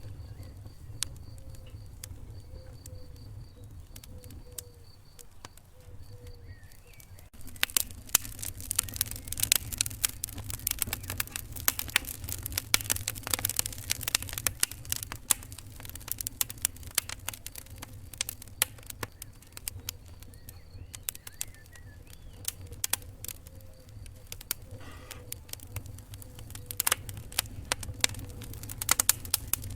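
Wood fire in a fireplace crackling and popping over a steady low rumble; the pops are sparse at first and turn dense and sharp about a quarter of the way in.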